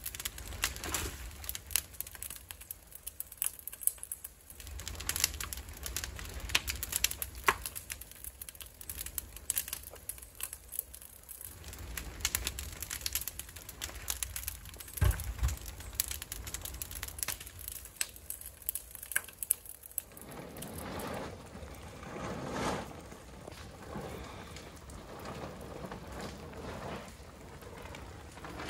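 Rain falling, with many sharp crackles and pops over the first twenty seconds and a single low thud about fifteen seconds in; after that, a steadier rush of rain.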